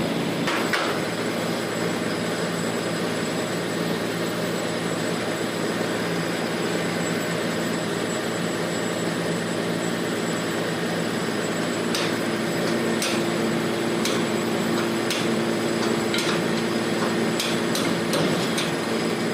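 Mahindra Swaraj combine harvester's diesel engine running steadily, with a few sharp metallic clicks or knocks in the second half.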